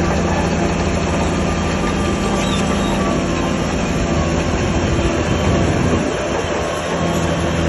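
Crawler bulldozer at work: its diesel engine runs steadily under load over the continuous clatter of its steel tracks.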